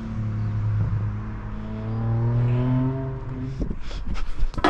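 A motor vehicle's engine running with a steady hum that rises slowly in pitch as it accelerates, dying away about three and a half seconds in. A few short knocks follow near the end.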